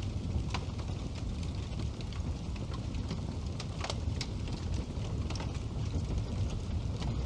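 Wood fire burning in a fireplace: a steady low rumble with irregular sharp crackles and pops, a cluster of louder pops a little after halfway.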